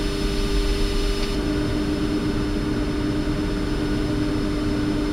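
Steady flight-deck noise of a Boeing 747-400 on the ground with its engines at idle: an even rush with a constant two-note hum.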